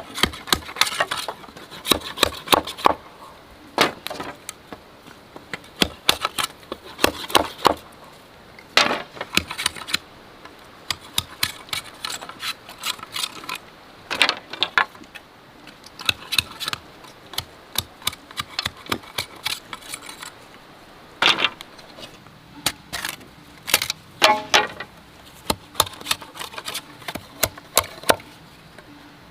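Irregular sharp wooden knocks and clacks of bamboo being cut and handled, sometimes several in quick succession, some with a short ring.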